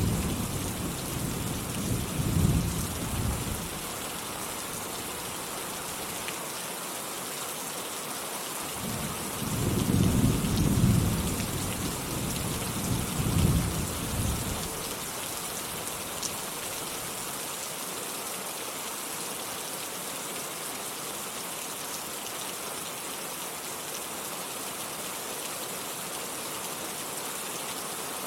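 Steady heavy rain hissing, with rolls of low thunder rumbling at the start and again for several seconds in the middle, then rain alone.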